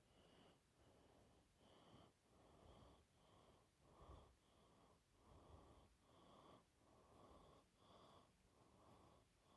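Faint, repeated scratching strokes of drawing on paper, about two strokes a second, as a small digital screen is drawn.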